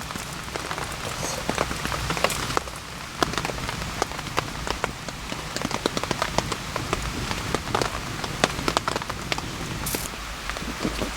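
Steady rain falling in a forest, with many irregular sharp hits of heavy drops striking a nearby surface.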